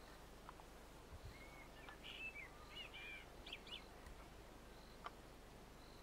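Faint bird calls: a short run of quick chirps and sweeping notes about two to four seconds in, over an otherwise near-silent background.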